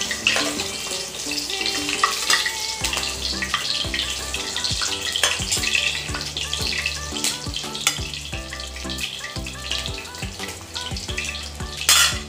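Eggs frying in hot oil in a wok, a steady sizzle as they are turned with a spatula, under background music with a melody and a steady beat. A brief loud burst of noise near the end.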